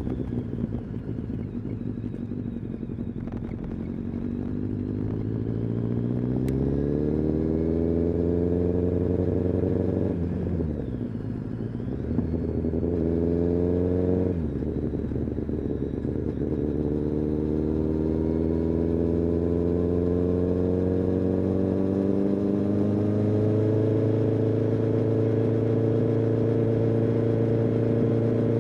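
Kawasaki ZX-10R's inline-four engine and exhaust under way, pitch climbing as it pulls away from low revs. The pitch drops about ten seconds in, climbs again, and falls sharply at an upshift about fourteen seconds in, then rises slowly and steadily.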